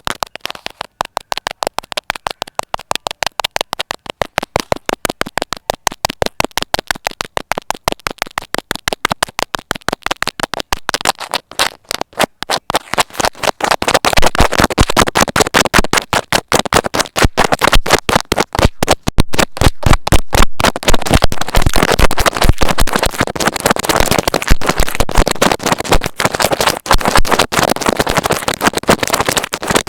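A needle repeatedly pushed into and pulled through a soft material: a fast, regular run of squishy pricks, several a second, growing denser and louder about twelve seconds in.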